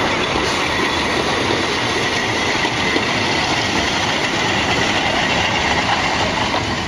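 Narrow-gauge passenger coaches rolling past close by, a steady, loud rumble and rattle of wheels on the rails, with a faint high tone joining in a few seconds in.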